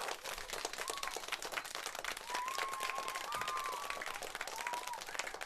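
Applause: many hands clapping in a dense, steady patter, with a few faint wavering calls over it in the middle.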